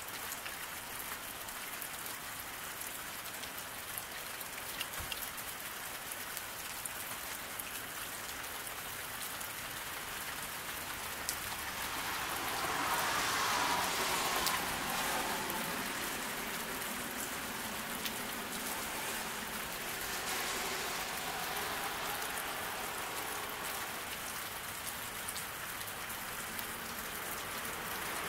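Steady rain falling on a road, with a car driving past on the wet pavement about halfway through: its tyre hiss swells and fades over a few seconds.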